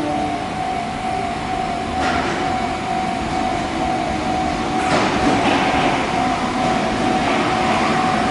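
Osaka Municipal Subway 30 series train running at the platform, with rail and car noise that swells about two seconds in and again about five seconds in, over a steady high tone.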